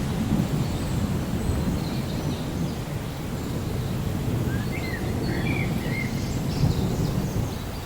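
Low rumble of distant thunder over steady rain noise, with a few short bird chirps about five to six seconds in and faint higher calls behind.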